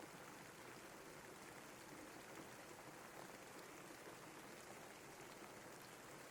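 Steady rainfall, a soft, even hiss with faint scattered drop ticks.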